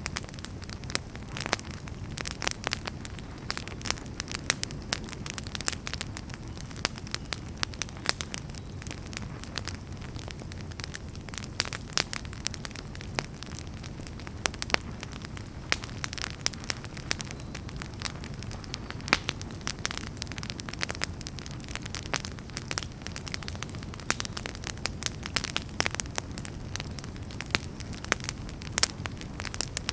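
Wood campfire burning: dense, irregular crackles and pops from the burning firewood over a low, steady rumble of the flames.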